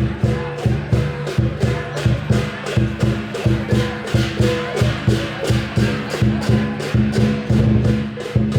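Lion dance percussion: a big drum with clashing cymbals and gong playing a steady, loud beat of about three strikes a second.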